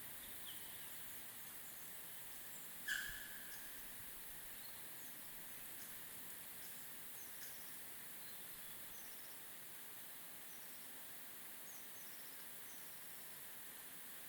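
A single water drop plinks into still water about three seconds in, a sharp drip with a short ringing tone. Behind it is a steady faint hiss, with faint high chirps of birds.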